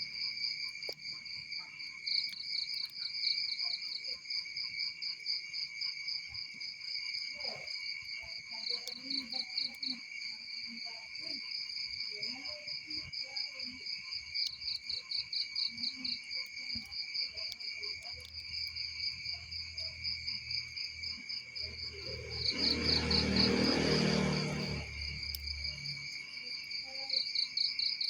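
Crickets chirping in a steady high trill, with pulsed chirp runs coming and going. About two-thirds of the way through, a broad whooshing swell rises and fades over a few seconds.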